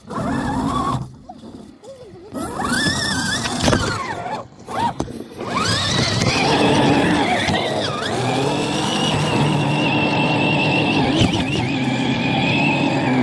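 Axial SCX10 II RC crawler's electric motor and gears whining, the pitch rising and falling with the throttle before settling into a steadier whine about six seconds in.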